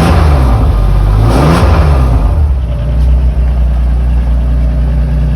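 BMW S54 3.2-litre straight-six running just after a cold start in an E36 race car. Its engine speed rises and falls twice in the first two seconds, then it settles into a steady idle.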